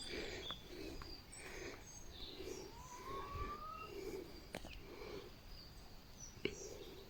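Faint calls and chirps of wild birds, including one rising whistled note about three seconds in, over a quiet outdoor background, with a couple of sharp clicks in the second half.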